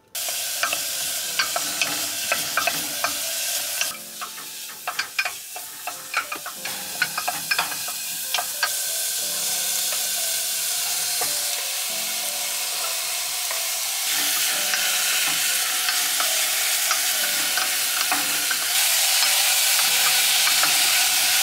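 Onion and vegetables sizzling in hot oil in an aluminium pressure cooker, a loud steady hiss. Through the first half there are many sharp taps of a knife chopping on a wooden board. Near the end a wooden spatula stirs the pot.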